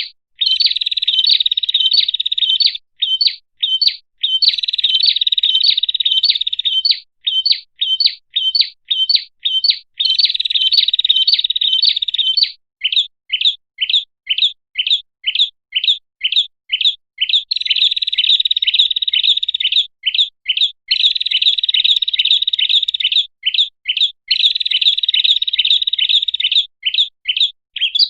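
Prinia (prenjak) song played as a bird-lure call: rapid sharp high chirps, about three a second, alternating with longer buzzing trills of two to three seconds each.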